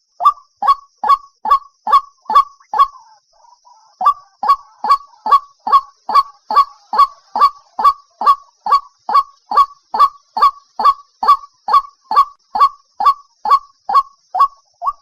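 White-breasted waterhen calling: a steady run of short, loud honking notes about two and a half a second, with a break of about a second three seconds in, over a faint steady high hiss. This is the waterhen's call played as a lure.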